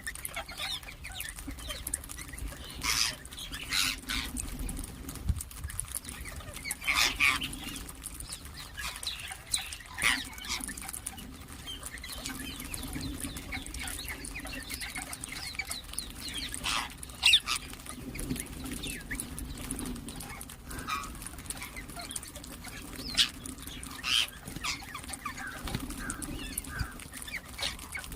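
Ringneck parakeets giving short, sharp screeching calls, a few seconds apart, over a low steady hum.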